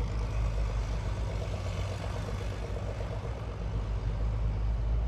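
Engine of a vehicle plowing snow with a blade, running steadily with a low drone that eases off slightly in the middle and comes back up.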